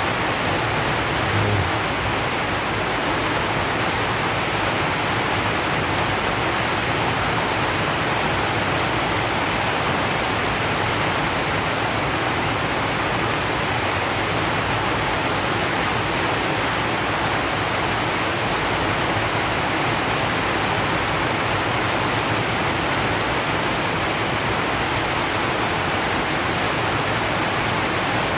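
Steady rain falling on a zinc sheet roof, an even hiss with no let-up. A brief low thump comes about a second and a half in.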